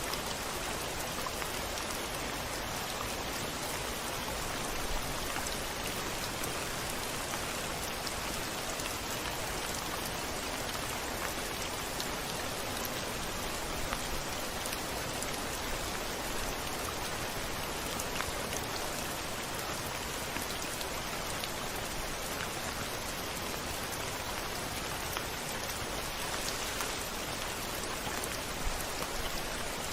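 Steady rain falling on a window pane, with scattered single drops ticking; no thunder.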